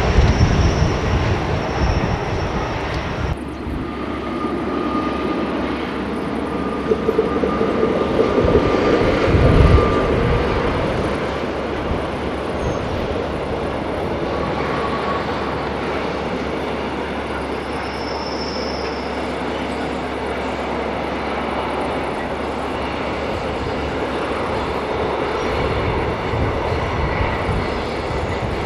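Freight train rolling along the track: a steady rumble of wagons on rails. A louder passing train in the first three seconds cuts off abruptly to a more distant, even rumble.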